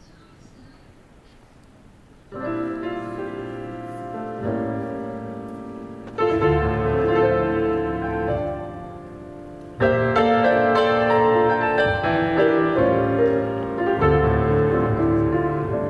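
Piano music begins about two seconds in after a brief hush, with clear sustained chords; it swells with deeper bass notes at about six seconds and again at about ten seconds.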